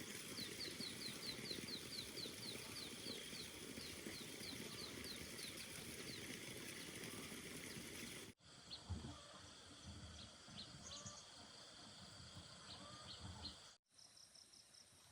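Outdoor rural ambience with a bird calling a rapid series of short falling notes, about two a second, for the first six seconds. After an abrupt cut, quieter background with a few scattered faint chirps.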